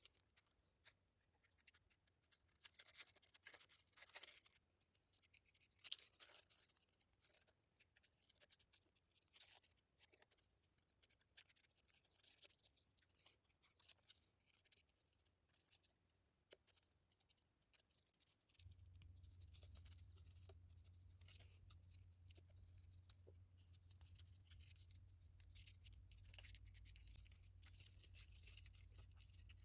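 Faint rustling, scraping and creasing of a sheet of paper being folded by hand, in scattered short scratches and clicks. A low steady hum comes in about two-thirds of the way through.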